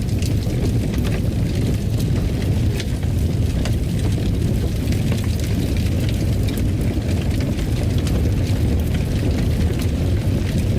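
Fire crackling in a fireplace: a steady low rumble with frequent small crackles and pops throughout.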